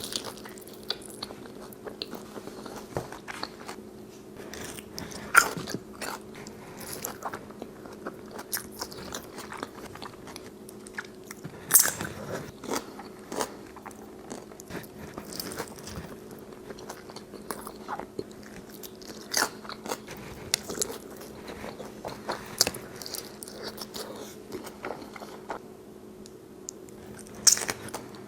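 Close-miked eating: crisp, crunchy bites and chewing at an irregular pace, with a few sharper, louder crunches, over a faint steady hum.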